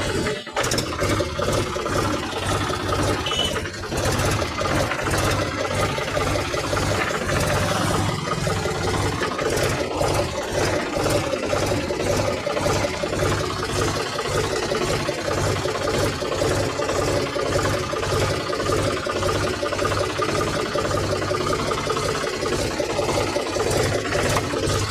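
Tractor engine running steadily with an even, regular low pulse.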